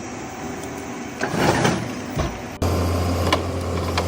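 Heavy machinery engine running, with mixed mechanical noise that cuts abruptly about two and a half seconds in to a steady low engine drone.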